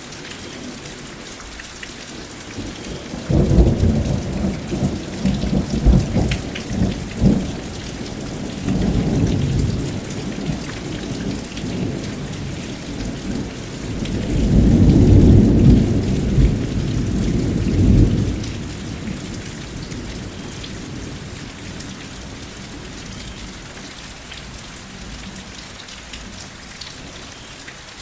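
Steady rain with a long roll of thunder. The thunder starts about three seconds in with crackling peals, swells to its loudest rumble near the middle, and fades out well before the end, leaving the rain alone.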